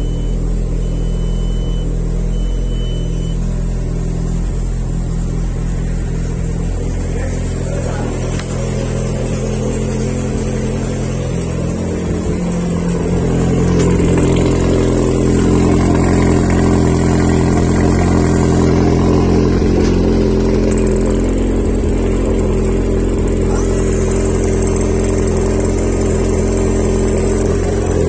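Rebuilt Audi 1.8T turbocharged four-cylinder engine running at a steady idle, getting a little louder about halfway through. A few short high beeps sound near the start.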